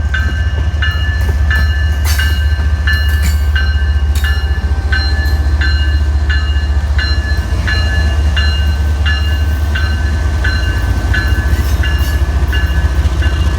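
Railroad grade-crossing bell ringing steadily, about three strikes a second, over the low, continuous rumble of a passing train.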